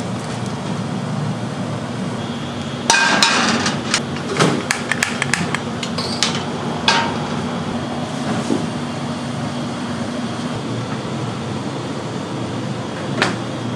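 Kitchen clatter: a run of sharp knocks and clinks, some ringing briefly like metal or glassware, grouped in the middle with one more near the end, over the steady hum of a fan.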